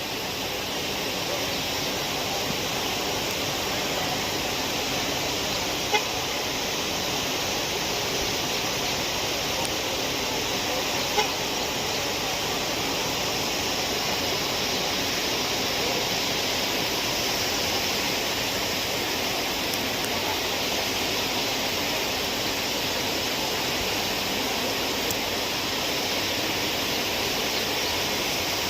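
Steady, even rush of heavy monsoon water, with two brief clicks about six and eleven seconds in.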